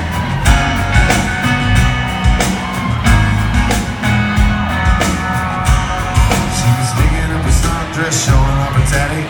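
Live country-rock band playing: electric guitar and a steady drum beat, with some vocals over the music.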